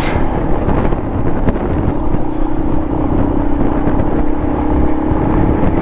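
Dual-sport motorcycle engine running at a steady speed while riding, with wind noise on the microphone.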